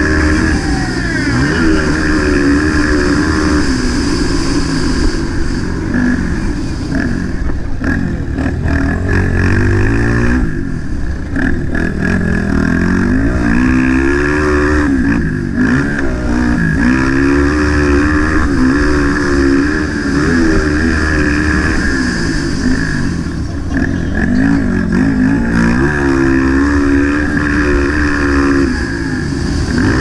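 Single-cylinder engine of a 230cc motocross bike revving up and down over and over as it accelerates, shifts and backs off around the track, with a steady low rushing noise underneath.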